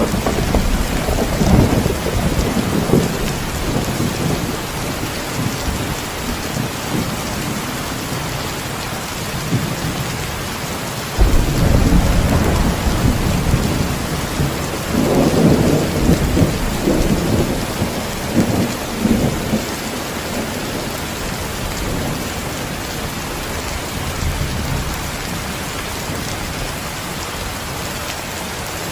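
Heavy rain falling steadily, with rolling thunder. A sudden thunderclap about eleven seconds in rumbles on for several seconds, then only the rain remains near the end.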